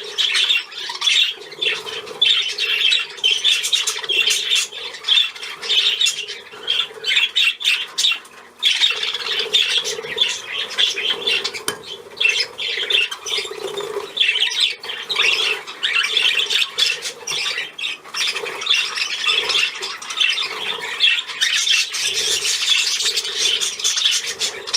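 Pet budgerigars chattering and squawking without let-up, with a brief lull about eight seconds in.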